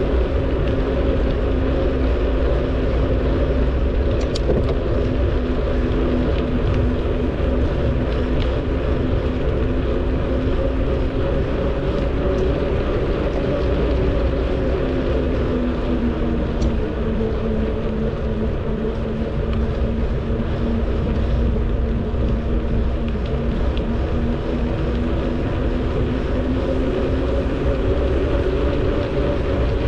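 Riding noise from a bicycle on a paved trail: wind rumbling over the microphone, with a steady hum whose pitch drifts slightly as the speed changes.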